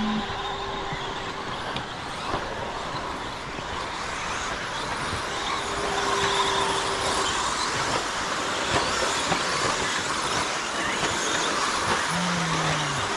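Radio-controlled stadium trucks racing on a track: a steady whirring hiss of motors and tyres with a few sharp clicks, and a short falling tone near the end.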